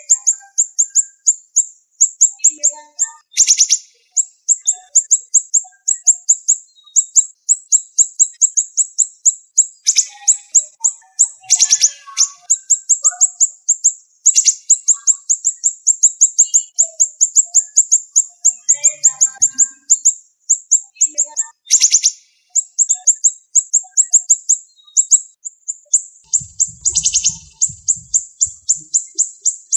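Siri-siri songbird singing a fast, tightly packed run of very high-pitched chattering trills without a break. Now and then a louder, fuller phrase cuts through, four times in all.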